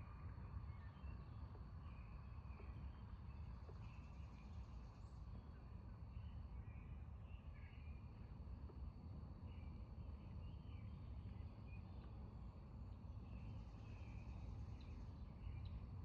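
Faint outdoor ambience: birds chirping in short scattered calls and a thin steady high insect-like tone over a low, even background rumble.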